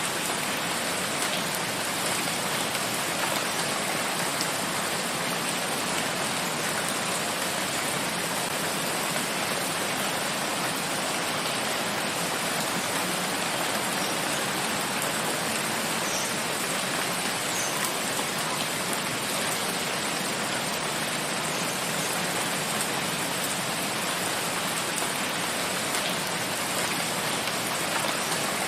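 Steady, even rainfall on a forest, a constant hiss of falling rain with no breaks.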